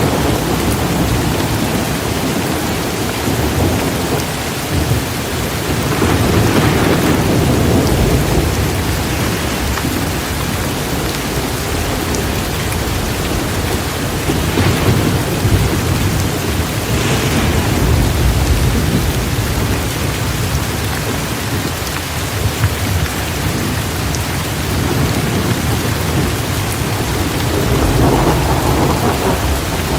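Heavy rain pouring steadily, with thunder rumbling low beneath it and swelling several times.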